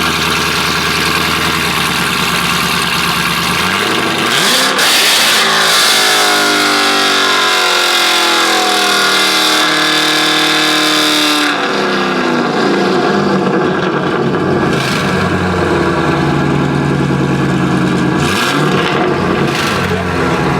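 Car engine idling, then revved up about four seconds in and held high with its pitch climbing for several seconds before dropping back to idle. A shorter rev follows near the end.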